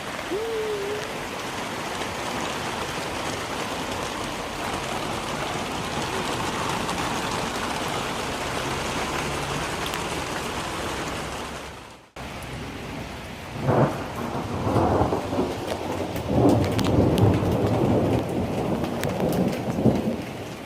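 Heavy rain falling in a steady hiss. After a sudden break about twelve seconds in, thunder rumbles and swells in several loud surges, with rain still pattering.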